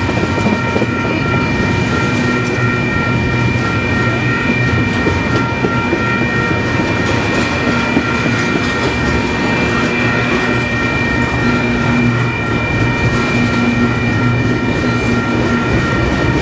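Double-stack container train cars rolling past at speed: a steady, loud rumble of wheels on rail, with high, steady ringing tones running over it.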